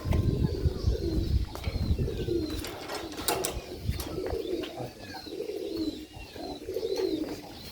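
Domestic pigeons cooing over one another in a loft, low repeated coos, with thin high chirps and a few sharp clicks among them.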